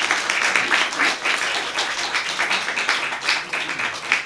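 Audience applauding, many hands clapping together, fading away near the end.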